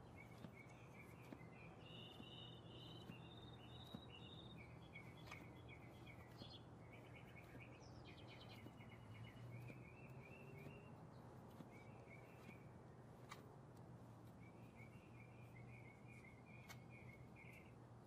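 Faint songbirds singing: runs of quick chirping trills, one phrase after another, over a low steady hum.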